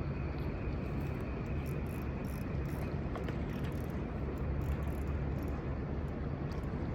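Fishing reel clicking in quick, irregular ticks while a hooked carp is played, over a steady low rumble.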